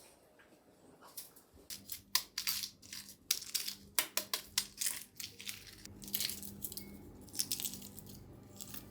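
Irregular run of crisp crunching and clicking sounds, starting about a second and a half in and thinning out near the end, over a low steady hum.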